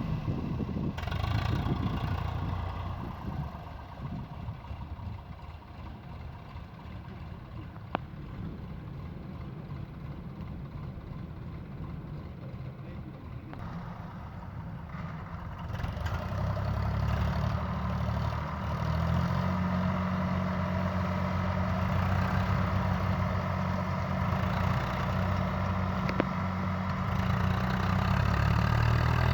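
Heavy diesel engine running. It is uneven and quieter through the first half, then louder and steady from just past halfway. A single brief click comes about eight seconds in.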